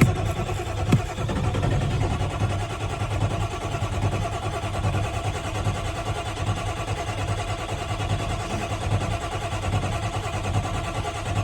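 Ford 7.3 diesel V8 labouring through a hard winter cold start, a steady, pulsing, uneven engine sound that does not settle into a clean idle. There is a sharp click about a second in.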